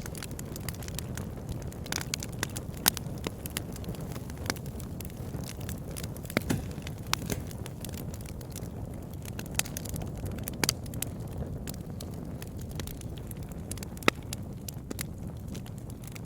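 Campfire burning: a steady low rush of flames under irregular sharp crackles and pops, a few of them louder than the rest.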